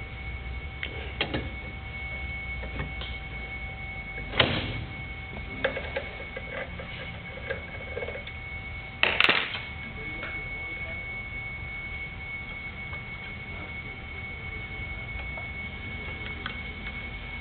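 Scattered clicks and a few sharp knocks from hands and a tool working the cutting blade off an unplugged chop saw, the loudest knock about nine seconds in; the blade is a little stuck.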